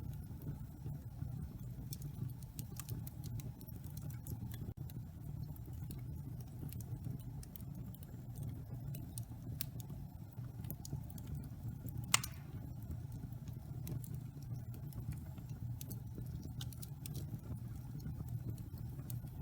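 Wood fire burning in a fireplace: a steady low rumble of flames with scattered small crackles and pops, and one sharper pop about twelve seconds in.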